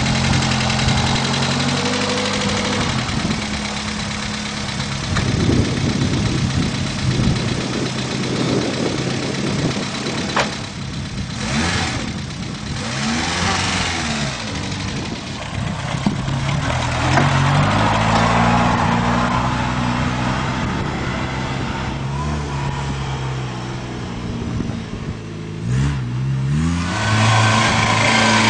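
Peugeot 5CV's small petrol engine running, its pitch rising and falling several times as it is revved and let back down.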